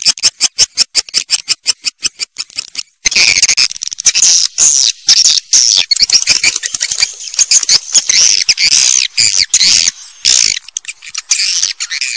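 Swiftlet calls: a fast, even run of high clicking chirps, about six a second, breaks off about three seconds in and gives way to a dense, high twittering chatter of many swiftlets. A swiftlet calling-sound recording of the kind played to draw swiftlets into a nesting house.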